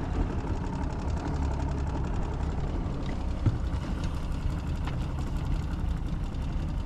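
Boat motor running steadily while cruising, a low rumble with a single brief knock about three and a half seconds in.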